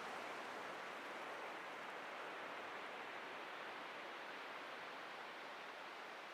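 Atlantic surf washing on a beach: a steady hiss of breaking waves that slowly eases off.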